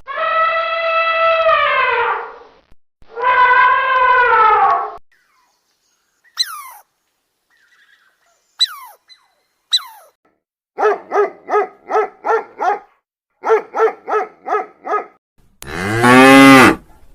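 A string of different animal calls: two long, drawn-out calls falling in pitch, three short sharp squeaks sweeping down, two runs of rapid pulsed calls at about five a second, then near the end a loud, low cow moo rising and falling in pitch.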